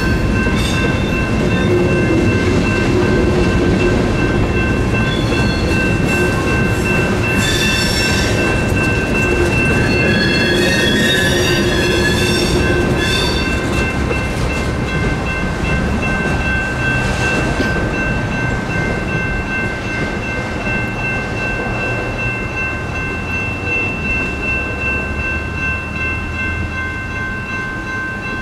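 Freight cars rolling through a grade crossing, wheels squealing now and then and rumbling on the rails, over the steady ringing of the crossing's General Signals Type 2 electronic bell. The train noise fades after about halfway, leaving the bell ringing.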